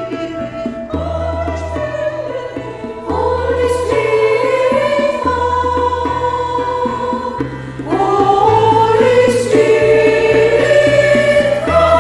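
Women's choir of sopranos and altos singing a worship song in long held notes over an accompaniment with a low bass line. It swells louder about three seconds in and again about eight seconds in.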